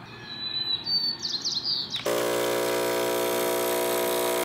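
Birds chirping in short rising notes, then about two seconds in a loud, steady buzzing tone with many overtones starts suddenly and cuts off abruptly.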